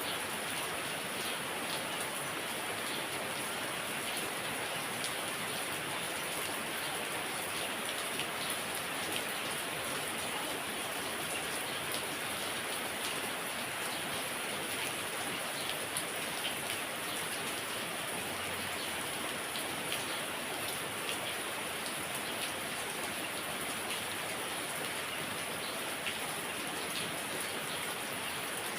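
Heavy rain falling steadily, with a dense patter of drops hitting a surface.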